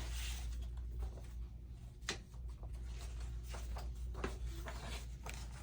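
Sheets of craft paper being handled and sorted, a few light rustles and taps over a steady low hum.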